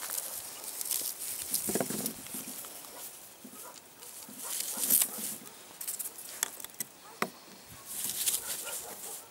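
A modern ferrocerium rod (fire steel) being struck several times to throw sparks onto rotten-wood punk tinder. Each strike is a short, bright, hissing scrape, with a couple of sharp clicks in the second half.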